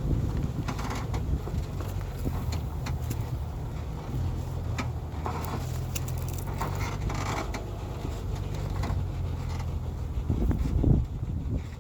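Heavy timber truck's engine running steadily, with scattered clanks and rattles from the truck, and the engine swelling louder shortly before the end.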